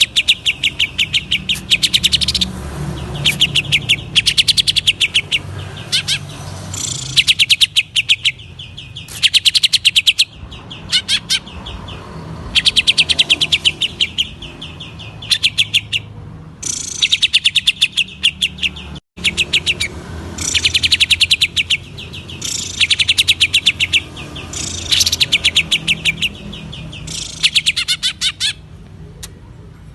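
Green leafbird (cucak ijo) singing in loud bursts of fast, rapid-fire chattering notes, each burst about a second long and coming every second or two, with a brief dropout a little past the middle.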